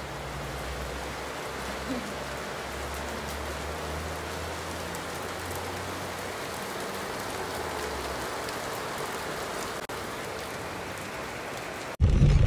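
Steady rain falling, an even hiss of drops on surfaces. Near the end it cuts off suddenly to a much louder low rumble.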